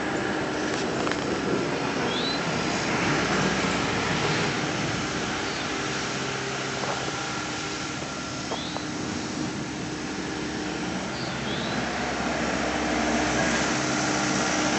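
Kobelco SK210 tracked excavator's diesel engine idling steadily, an even hum with a constant low drone.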